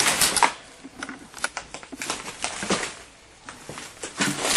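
Footsteps and handling in debris: an irregular run of clicks, crinkles and light knocks.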